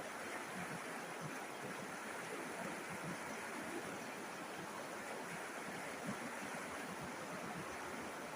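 River water flowing and babbling over stones, a steady rushing with small splashes.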